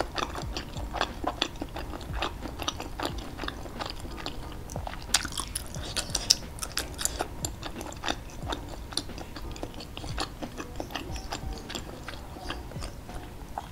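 A person chewing a mouthful of skewered meatballs in red chili sauce close to the microphone, with irregular mouth clicks and smacks a few times a second.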